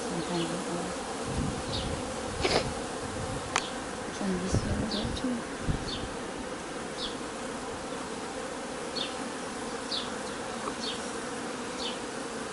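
Honeybees in an opened hive buzzing in a steady hum. There are a couple of sharp knocks about two and a half and three and a half seconds in, and faint short high chirps come about once a second.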